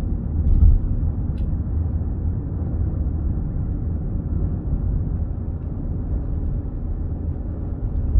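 Steady low road and engine rumble of a car being driven, heard from inside the cabin, with one sharp click about a second and a half in.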